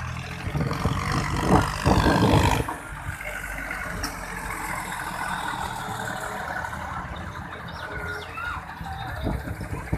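Tractor engine running, louder for about two seconds near the start, then steady.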